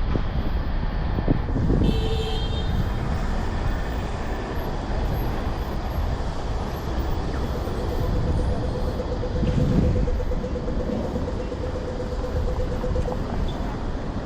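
City street traffic noise: cars and other vehicles passing in a steady wash of sound. A brief high tone comes about two seconds in, and a steady tone holds for about five seconds in the second half.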